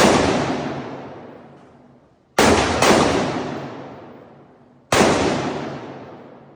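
Four gunshots from a firearm being fired at a target: one at the start, a quick pair about two and a half seconds in, and a fourth near five seconds. Each shot ends in a long, echoing decay.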